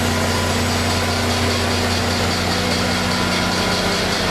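Diesel locomotive engine idling with a steady low drone; its tone shifts slightly about two seconds in.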